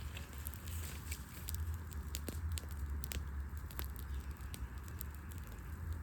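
Wood fire crackling, with scattered sharp pops at irregular intervals over a low steady rumble.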